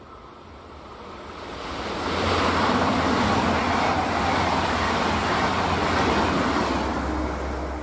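Deutsche Bahn ICE high-speed electric train passing at speed: a steady rush that builds over the first two seconds and stays loud while the coaches go by.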